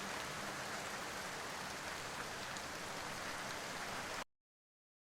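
Steady hiss of rain falling, with no distinct drops or rhythm, that cuts off abruptly about four seconds in to dead silence.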